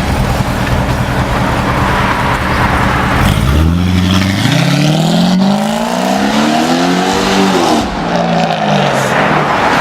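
2008 Chevrolet Corvette's 6.2 L LS3 V8 running through an aftermarket front-pipe exhaust. It idles steadily, then is revved about three and a half seconds in, its pitch climbing for about four seconds before falling back, holding briefly and dropping again near the end.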